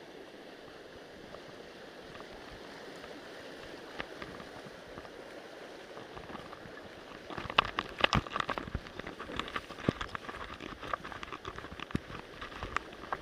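Steady rush of water from a rising mountain stream. From about seven seconds in, sharp, irregular pattering and knocks sit close over the rush.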